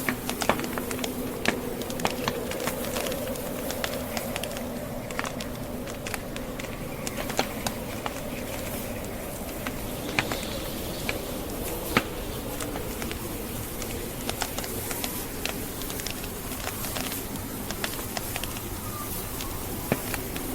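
Wood fire crackling, with frequent sharp pops and a few louder snaps, over a steady rush of blizzard wind.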